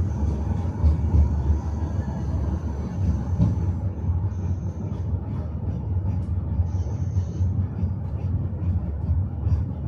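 Tram car running along the track, heard from inside the car: a steady low rumble with light irregular clicking and clacking of the wheels over the rails, several ticks a second from about four seconds in.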